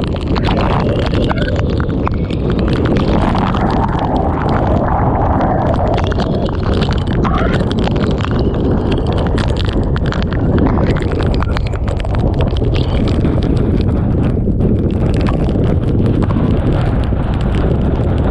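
Typhoon eyewall wind buffeting the microphone with driving rain, a loud continuous rush peppered with rapid taps and knocks.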